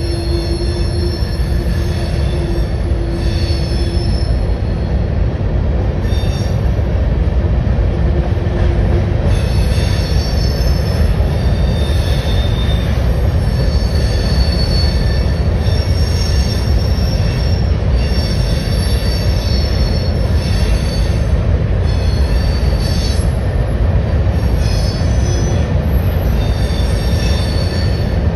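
Loaded covered hopper cars of a freight grain train rolling over a steel girder bridge: a steady heavy rumble, with high-pitched wheel squeals that come and go.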